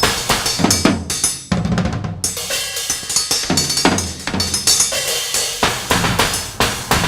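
Improvised solo drumming on a makeshift kit of drum parts and hardware-store metal: fast, dense strikes of bass drum, snare and cymbals, with the bright metal hits dropping out briefly about a second in.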